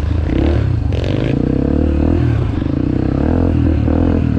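Dirt bike engine running under a rider, its pitch rising and falling with the throttle. There are two short scraping noises in the first second and a half.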